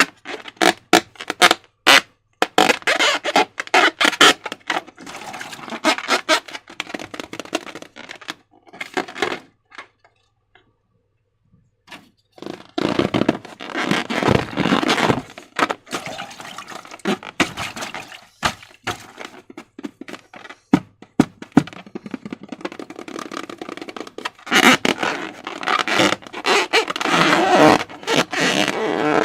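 Hand-handling sounds of slime and balloon material: irregular sharp clicks, crackles and sticky squishing, close up. There is a pause of about two seconds near the middle.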